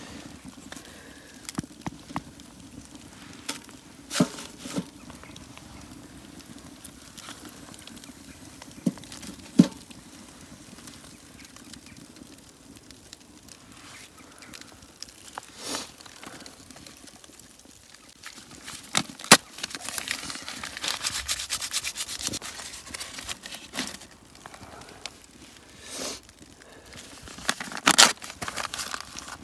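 Campfire crackling, with scattered sharp pops and a denser run of crackling about two-thirds of the way through.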